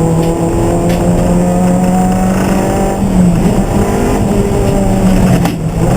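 Race car engine running hard throughout, its pitch dipping about halfway through and then climbing again.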